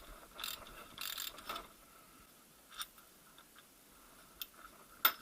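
Steel parts of a VAZ manual gearbox's secondary shaft being worked by hand while it is stripped: two short scraping rattles in the first second and a half, then scattered metallic clicks, the sharpest near the end.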